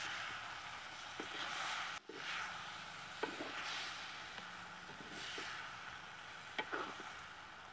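Shrimp, green chillies and onions sizzling in oil in a clay pot as they are stirred and turned with a spatula, the hiss swelling with each stroke. A few light knocks of the spatula against the pot, about three seconds in and near the end.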